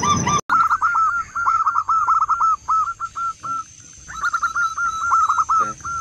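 A bird calling in fast runs of short, down-hooked notes, about five a second, in two runs with a pause of under a second between them. There is a brief dropout about half a second in.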